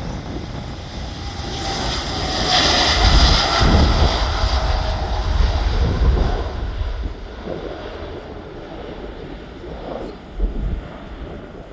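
Jet airliner's engines on takeoff: a loud rushing roar that builds over the first few seconds, peaks with a deep rumble, then fades away. A brief low thump near the end.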